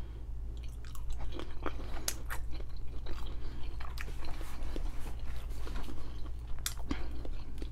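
A person chewing a mouthful of food close to the microphone, with many short wet smacks and clicks of the mouth.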